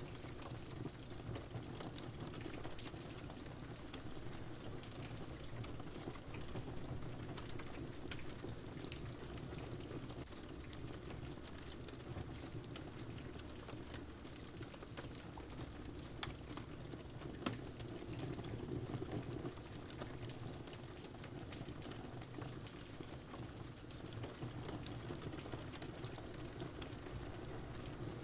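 Steady rain with the scattered crackles and pops of a wood fire, one pop louder than the rest about two-thirds of the way through.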